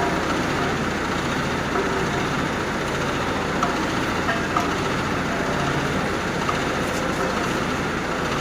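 Heavy machinery running steadily with a deep rumble, with a few short metallic clinks about halfway through and again near the end.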